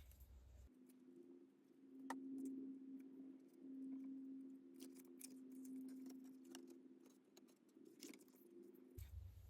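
Near silence: a faint steady low hum with a few small, faint clicks from paper pieces being handled on a craft table.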